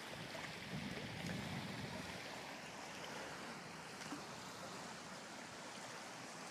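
Faint, steady outdoor background noise, an even hiss with no distinct events.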